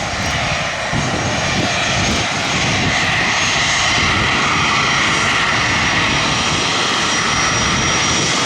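Aircraft engines running loud and steady close by, building slightly about two seconds in, with a thin high whine coming in about halfway.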